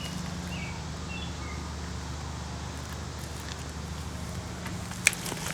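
Outdoor garden ambience: a steady low hum with a few faint bird chirps in the first second or two, and one sharp snap or click about five seconds in.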